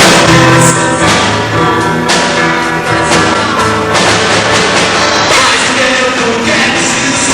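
A rock band playing live and loud, with a voice singing over it.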